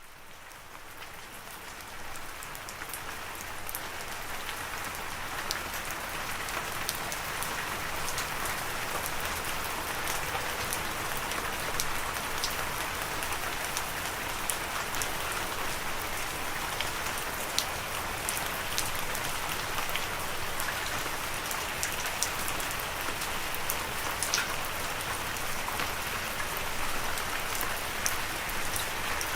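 Steady rain falling, a dense even hiss with scattered sharp drop hits. It fades in from silence over the first few seconds, then holds steady.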